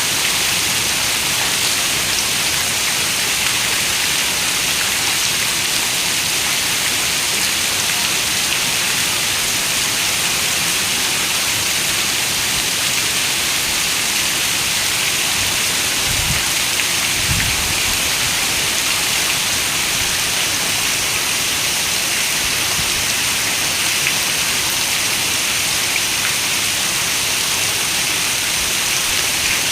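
Steady rain falling in an even hiss, with a brief low rumble of distant thunder about sixteen seconds in.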